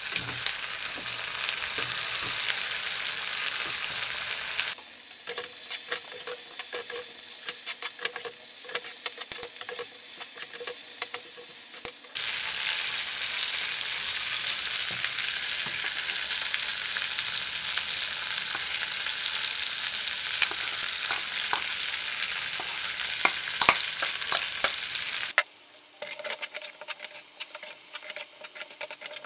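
Potatoes, tomatoes and smoked pork sizzling in hot oil in a black metal kadai, with a metal spoon and spatula scraping and clicking against the pan as the food is stirred. The clicks are loudest and sharpest a few seconds before the end, and the sizzle changes abruptly a few times.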